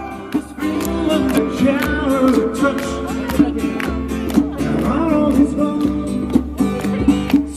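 Live acoustic music: an acoustic guitar strummed in a steady rhythm, about two strokes a second, with a wavering melody line over it.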